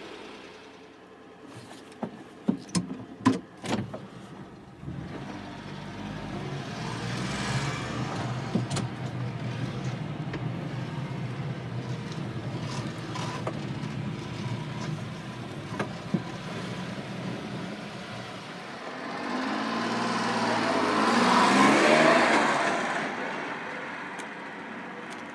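1992 Honda Acty kei truck with a few sharp knocks, then its small three-cylinder engine running steadily. About twenty seconds in, the engine is revved up once and falls back.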